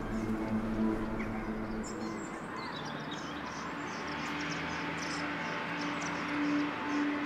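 Birds chirping in quick, repeated short calls from about two seconds in, over quiet background music holding long, steady notes.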